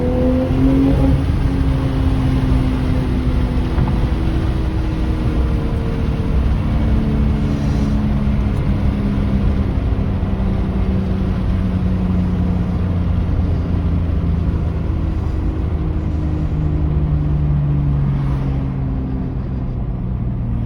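BMW M240i's B58 turbocharged inline-six exhaust, with muffler delete and Dynomax race bullet resonators, heard from inside the cabin in Sport Plus mode. The engine note drops sharply with a gear change at the start, then falls slowly and steadily in pitch as the revs wind down.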